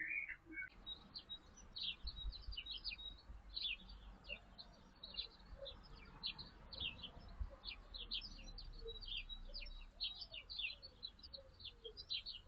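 Small birds chirping in a quick, continuous chatter of short high notes, with softer, lower arched calls joining in from about six seconds in.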